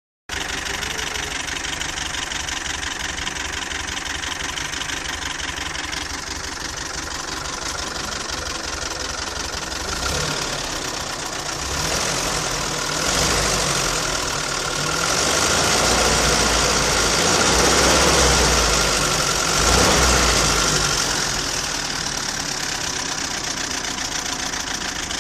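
GAZelle's ZMZ-402 inline-four petrol engine idling with a diesel-like knock, revved up in several swells in the middle, then back to idle. The knock came from a scuffed No. 4 piston.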